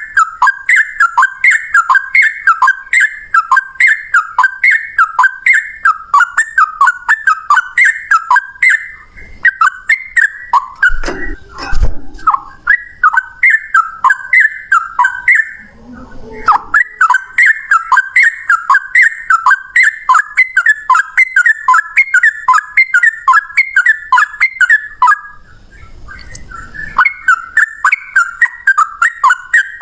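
Sooty-headed bulbul singing its rapid song: long runs of quick, repeated whistled notes, a few each second. The runs break off briefly about halfway through and again near the end.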